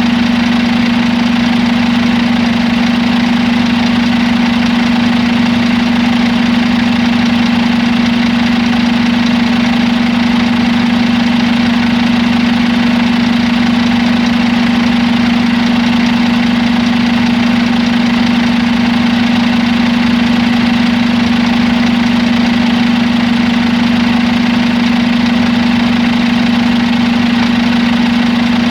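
Scania G450 truck's 13-litre six-cylinder diesel engine idling steadily, with a strong even hum.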